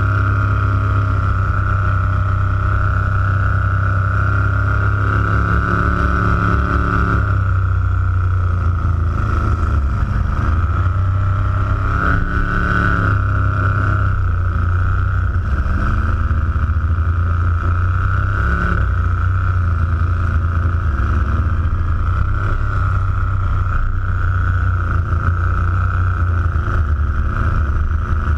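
Supercharged big-block Ford V8 in a '34 Ford coupe running hard and steadily through a long burnout, heard close up from on the car, its pitch shifting slightly a few times.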